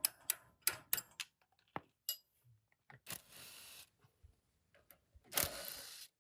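A run of quick, sharp clicks and taps, then two short bursts of hiss, about a second long each, the second louder: workshop sounds from work on band saw parts.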